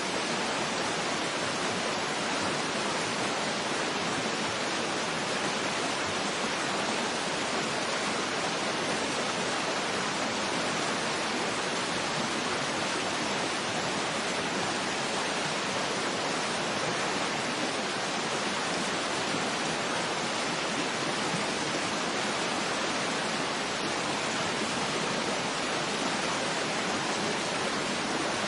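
Steady, unbroken rush of falling water, a waterfall ambience with an even hiss and no other sounds.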